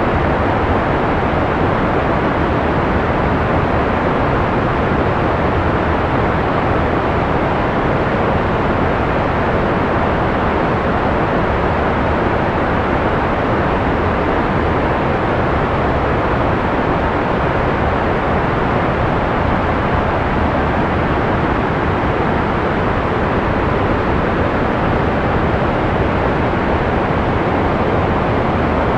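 Steady analog white noise, an even rush with no changes, its highs rolled off so that it sounds dull rather than bright.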